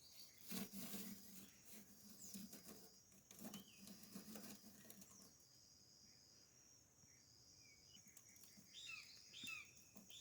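Faint outdoor ambience: insects chirping in a steady high trill and a few short bird chirps, mostly near the end, with soft crackling from a small kindling fire of dry twigs and leaves just catching.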